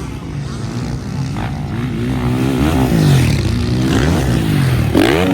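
Several MX1 motocross bikes racing, their engines revving up and falling back as they accelerate and shift, with more than one bike heard at once and a sharp rise in pitch near the end.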